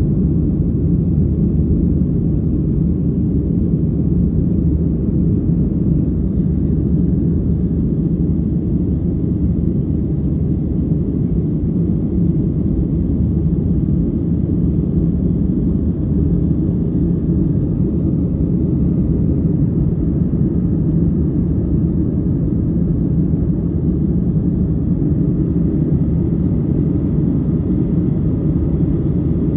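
Airliner engines during takeoff and climb, a steady low rumble that holds at one level throughout.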